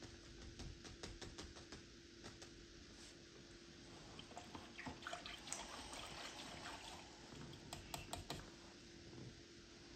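Faint room tone: a steady low hum with scattered light clicks and taps.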